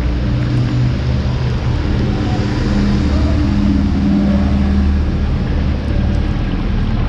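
A nearby motor vehicle's engine running close by, a loud steady low hum whose pitch shifts a little now and then, over street traffic.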